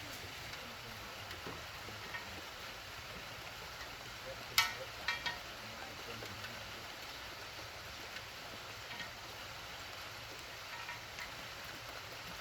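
A sharp knock about halfway through, quickly followed by two lighter ones, over steady background noise with a few faint scattered ticks.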